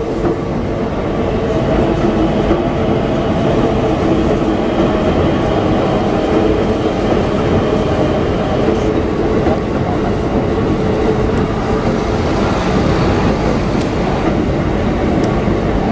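Keikyu electric train passing over a level crossing, running steadily with dense rolling noise.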